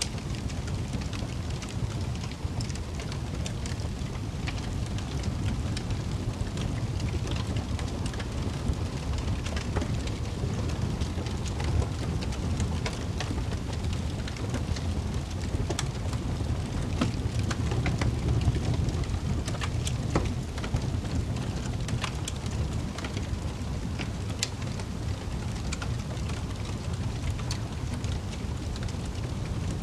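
Wood fire burning in a fireplace: a steady low rumble with scattered crackles and sharp pops throughout.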